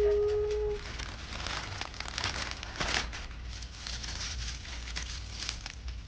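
Plastic merchandise packaging crinkling and rustling as it is handled, in irregular bursts over a steady low background hum. It opens with a short, loud tone that rises and then holds steady before cutting off just under a second in.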